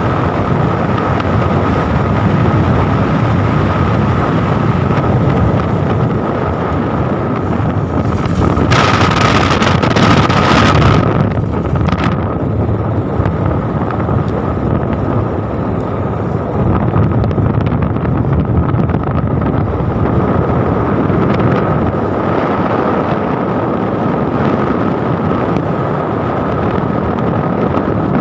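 Wind rushing over the microphone with vehicle engine and road noise while riding, steady throughout, with a louder, hissier rush for about two seconds around nine seconds in.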